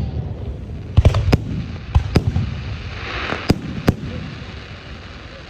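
Fireworks display: six sharp bangs of aerial shells bursting, mostly in close pairs, over a low rolling rumble, with a brief hiss about three seconds in.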